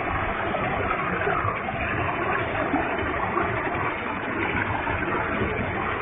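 Waterfall with a heavy flow of water: a steady, even rush of falling water.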